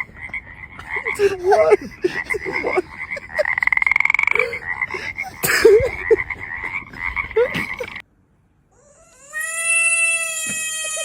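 Frogs croaking over a steady high chorus, with a rapid buzzing trill about four seconds in. After a sudden cut and a moment of silence, one long, slightly falling cry.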